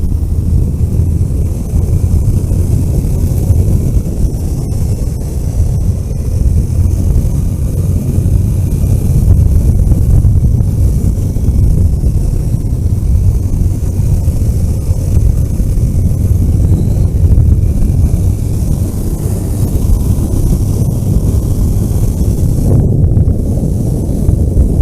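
A vehicle driving along a road: a steady, loud low rumble of engine and road noise, with wind noise on the microphone.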